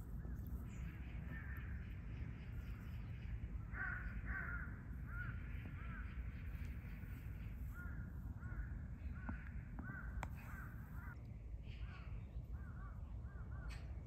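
Birds calling in runs of short, repeated, arched calls that begin about four seconds in, over a steady low background rumble.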